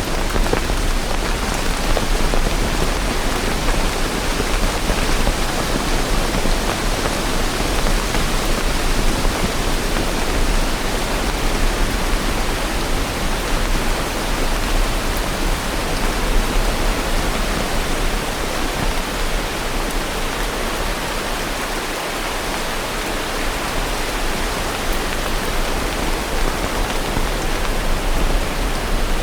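Steady heavy rain falling, a dense even hiss of drops with no let-up.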